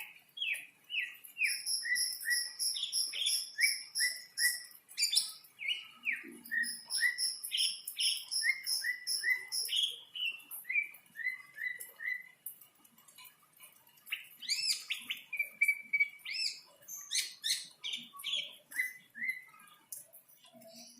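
Green leafbird (cucak ijo) singing in breeding condition: a long run of quick down-slurred chirps with a rapid high trill over them, turning to more varied, warbled phrases about two-thirds of the way through.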